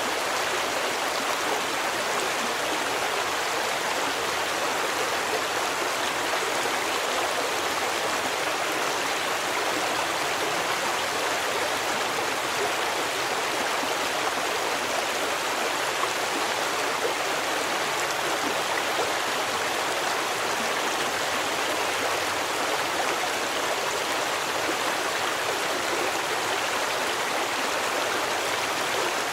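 Stream water flowing steadily, a constant rushing with no breaks.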